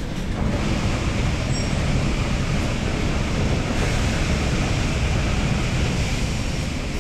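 A passenger train running through a tunnel, heard from inside the carriage as a loud, steady rumble and rush. The noise swells right at the start as the train enters the tunnel.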